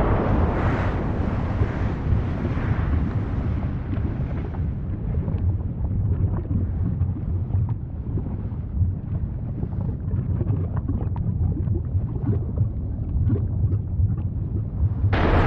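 Volcanic eruption: a deep continuous rumble with many small crackles and pops. The higher hiss dies down after about four seconds and surges back suddenly near the end.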